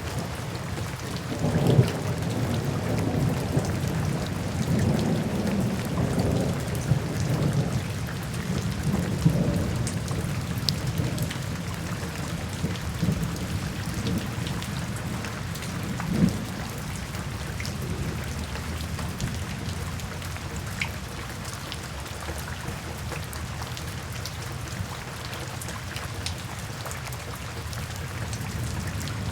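Steady rain falling, with low thunder rumbling through roughly the first ten seconds and then easing off. A few sharper cracks stand out, near the start and about halfway through.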